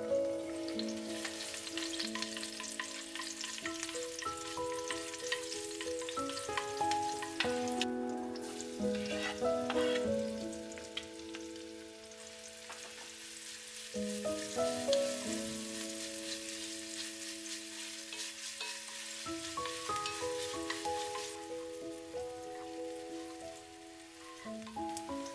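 Sliced garlic and onion sizzling as they fry in hot oil in a pan and are stirred with a wooden spoon. The sizzle starts just after the garlic goes in and fades out near the end. Background music with slow, held notes plays throughout.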